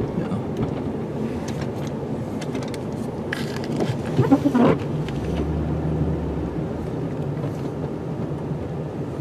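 Plow truck's engine running, heard from inside the cab, with a short rising squeal about four seconds in and a low drone that swells for about a second and a half just after.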